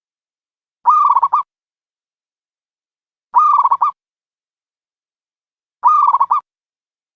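Dove calling as a trapping lure: three identical short calls about two and a half seconds apart, each ending in a quick stutter.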